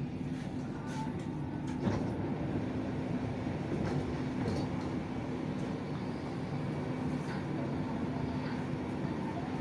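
BTS Skytrain electric train running, a steady rumble with an even low hum and a few faint clicks.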